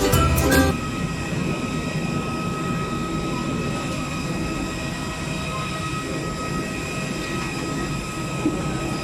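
A short jingle of music that cuts off about a second in, then a steady mechanical hum and rumble with thin high whining tones running through it.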